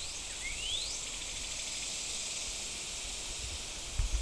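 Steady high-pitched outdoor hiss, typical of an insect chorus. Two quick rising whistled notes from a bird about half a second apart at the start, and a brief low bump near the end.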